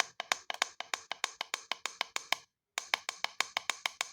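Rapid, evenly spaced clicks, about six or seven a second, from a digital alarm clock as its time is being set. They break off for a moment about two and a half seconds in, then carry on.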